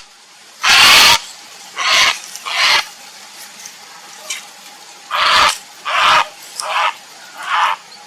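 Grey heron giving harsh, croaking calls: one loud call about a second in, then a series of shorter, quieter calls spaced irregularly.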